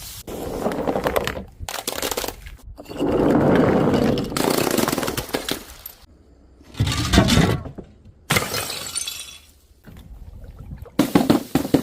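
Glass bottles and jars breaking: a string of about six separate smashes and crunches of shattering glass, each one cut off abruptly before the next.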